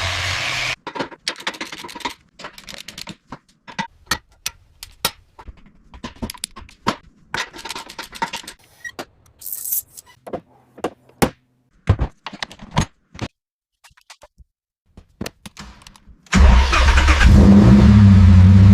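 A run of scattered sharp clicks and knocks, then near the end a car engine suddenly comes in loud and keeps running steadily.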